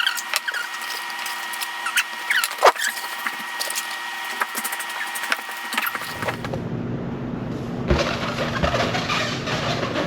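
Scattered short squeaks and clicks over a faint steady hum. About six seconds in, a passenger train starts up with a steady low rumble and clatter.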